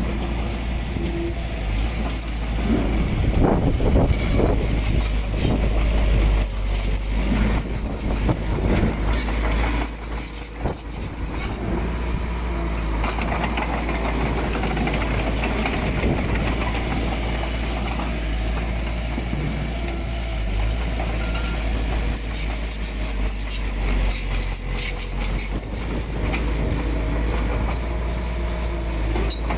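Diesel engine of heavy earthmoving machinery running steadily with a deep rumble. It grows louder for a few seconds early on, and bursts of metallic clatter come and go.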